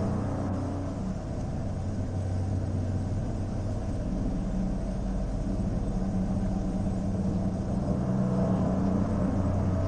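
Low, steady droning ambient background music, a dark sustained pad that holds the same deep notes throughout.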